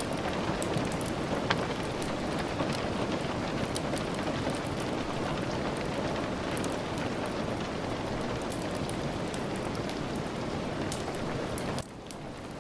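Steady rain, a dense even hiss with many scattered sharp ticks. Near the end it drops suddenly to a quieter, thinner hiss.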